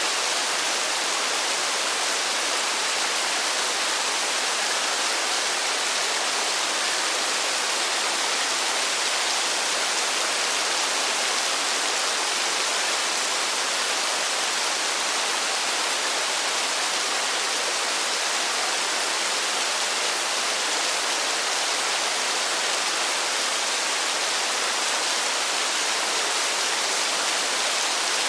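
Steady rain falling, an even unbroken hiss with no thunder or other events.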